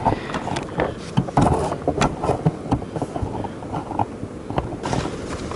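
Irregular rustling, crackling and knocking from a tarp and rope being handled and tied off.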